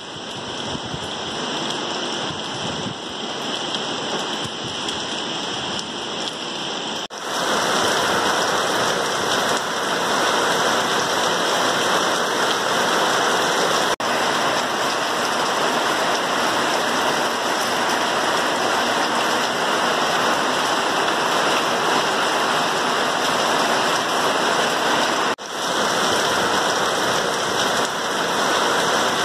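Heavy rain pouring steadily onto trees, leaves and waterlogged ground, heard as a dense, even hiss. It gets louder about seven seconds in and drops out for an instant a couple of times.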